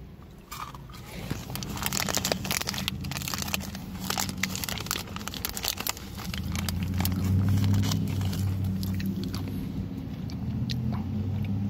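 Close-up crunching and chewing of a nut-crusted milk chocolate dome with a crisp wafer shell, full of sharp crackles through the first half. From about six seconds in, a steady low hum comes up under the chewing.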